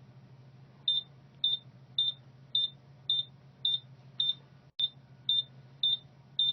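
Truck dashboard warning beeper sounding a steady series of short high-pitched beeps, a little under two a second, starting about a second in, with the ignition on before cranking. A steady low electrical hum runs underneath.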